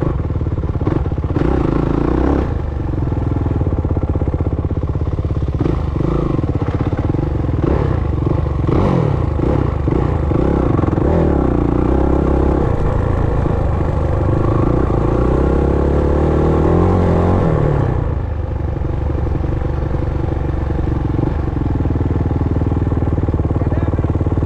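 Dirt bike engine running hard, revving up and easing off as it works through the gears, with a long climb in pitch that cuts back sharply about three quarters of the way through. Chassis clatter and a few sharp knocks over rough ground come in the first part.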